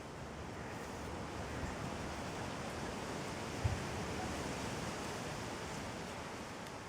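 A steady rushing noise, with a single short low thump about three and a half seconds in.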